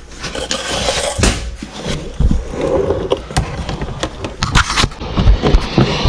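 Irregular scraping, clicking and light knocks of hands working plastic parts while twisting a fog light bulb into its housing on a car.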